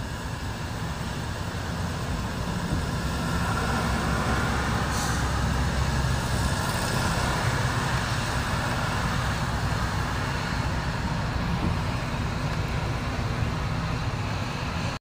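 Steady rain falling on flooded ground and puddles, an even hiss with a strong low rumble underneath, growing louder over the first few seconds and then holding steady.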